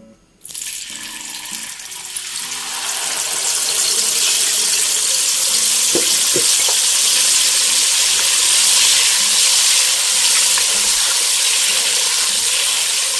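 Blended onion, dried chilli and ginger paste hitting hot oil in a wok and sizzling as it starts to fry. The sizzle begins suddenly about half a second in, grows louder over the next few seconds, then holds steady.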